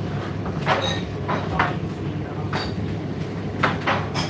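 Indesit IDC8T3 condenser tumble dryer running: a steady motor and fan hum with irregular knocks and clicks as the load tumbles in the drum.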